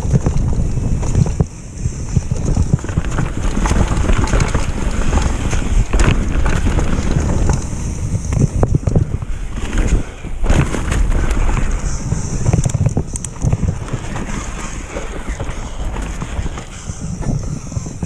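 Wind buffeting the microphone on a downhill mountain bike ride, with a steady rumble of tyres over the trail and frequent rattling knocks from the bike.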